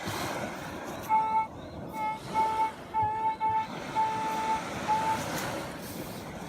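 Metal detector target tone: a string of short beeps at one steady pitch, some longer than others, as the coil sweeps over a buried target. The target turns out to be a pull tab giving a solid, coin-like signal.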